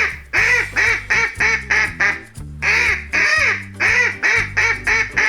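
Duck quacking: two quick runs of short, rasping quacks, several a second, over cheerful backing music.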